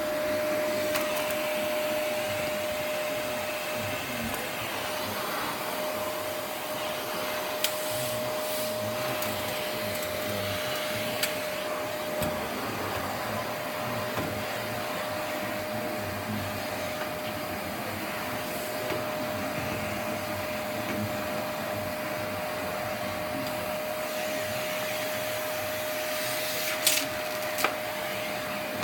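Vacuum cleaner running steadily with a constant whine, and a few sharp clicks, two of them close together near the end.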